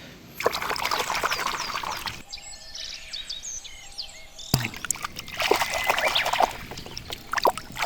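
Water splashing and trickling in two noisy stretches, with high chirps over it and a sharp click about halfway through.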